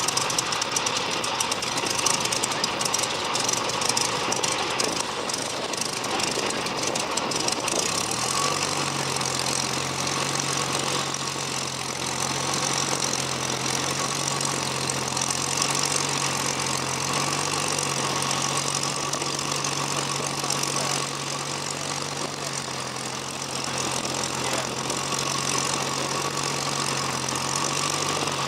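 Hawker Hurricane's Rolls-Royce Merlin V12 engine starting up: rough and rattling for about eight seconds, then settling into a steady, even run with the propeller turning.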